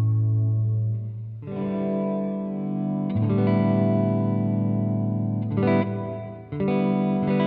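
Electric guitar played through an amp with the Alabs Cetus reverb pedal on its hall setting: sustained chords, a new one struck four times, each left to ring out into the next.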